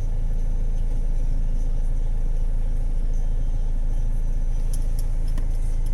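Diesel engine of a Citroen C4 Picasso idling with a steady low rumble, with a few light clicks near the end.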